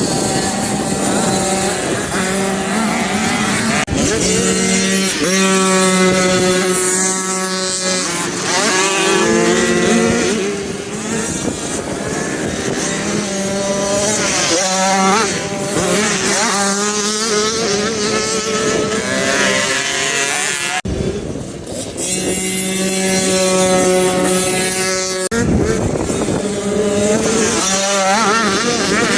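Motocross bike engines revving up and down as they ride the track, several bikes at once, their pitch repeatedly rising and falling.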